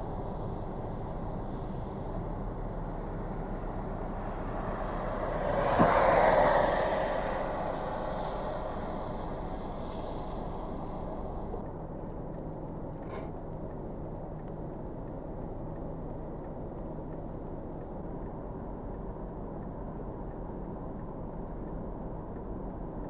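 Steady road-traffic noise on a snowy highway, with a vehicle passing by about six seconds in: the sound swells, peaks sharply and fades.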